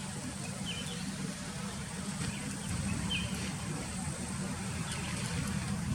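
A steady low rumble, like a vehicle engine or traffic, with a few short, faint bird chirps over it, about three in all.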